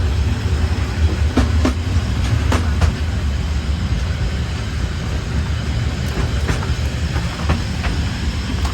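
Narrow-gauge train rolling along the track with a steady low rumble, its wheels clicking over rail joints in pairs several times.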